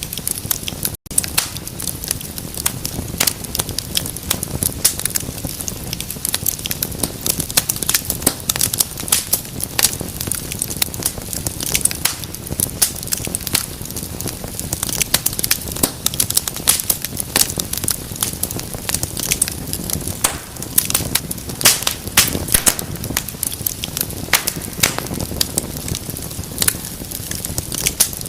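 Fire in a fireplace crackling steadily: a constant low rush of flame with dense, irregular sharp pops and snaps, and a momentary break about a second in.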